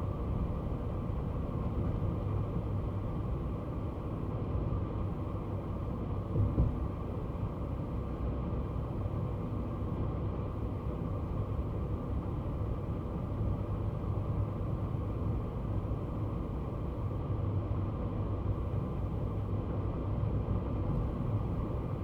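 Kei car on the move: steady engine and road noise, a continuous low rumble, with one brief louder knock about six and a half seconds in.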